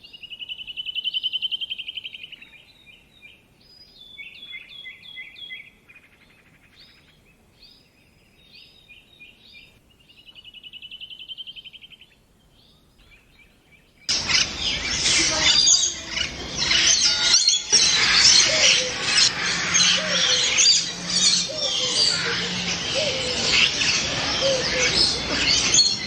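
Birdsong: separate short trilled phrases from a single bird, with quiet gaps between them, then about halfway through a sudden switch to a loud, dense chorus of many birds calling at once.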